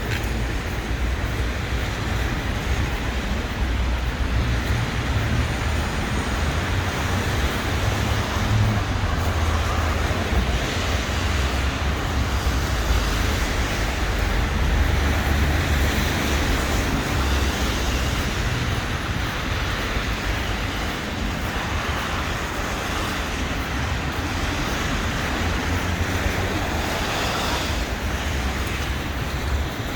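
Steady city street ambience: road traffic running past with a constant low rumble.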